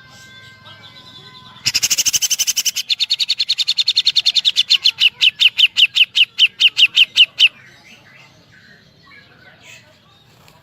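Cucak jenggot (grey-cheeked bulbul) singing a rapid burst of sharp repeated notes in imitation of a woodpecker, starting about two seconds in. The notes come very fast at first, slow to about five a second, and stop abruptly after about six seconds. Faint held whistles come before the burst and soft chirps after it.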